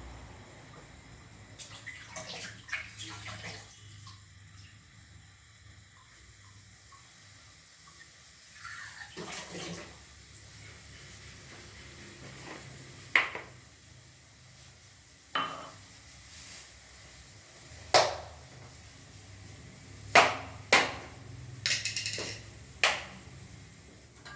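Kitchen work with cookware: water running or splashing in a couple of short stretches in the first half, then about seven sharp clanks and knocks of pots and utensils in the second half, as a kadai is set up for sugar syrup.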